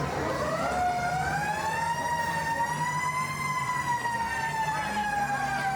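A siren winding up, its pitch rising for about three seconds and then slowly falling, over a steady low engine rumble.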